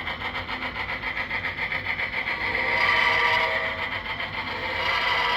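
Model steam locomotive, a C&O mallet, running along the layout's track with a steady rhythmic pulsing of about four or five beats a second, growing louder in the middle.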